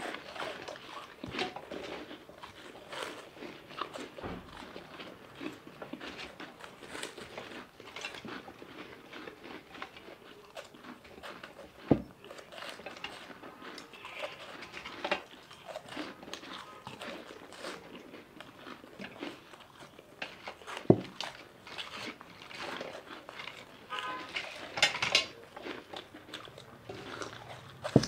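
Two people crunching and chewing cheese balls fast, mouths full, with two sharp knocks in the middle.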